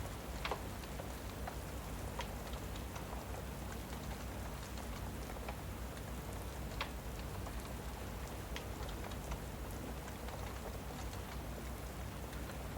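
Steady rain ambience with scattered sharp crackles from a wood fire in a fireplace; the loudest crackles come about half a second in and near seven seconds.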